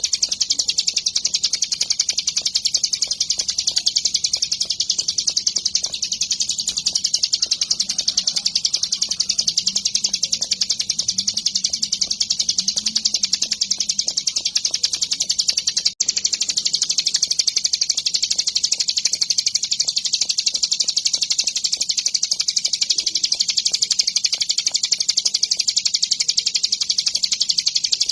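Prinia (ciblek gunung) singing a fast, unbroken run of high chattering notes, played as a song-training recording. About halfway through there is a brief dropout, where the recording is joined.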